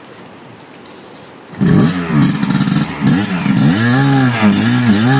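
A quiet steady hiss, then about a second and a half in a dirt bike engine starts loudly and is revved up and down again and again, as on a muddy climb.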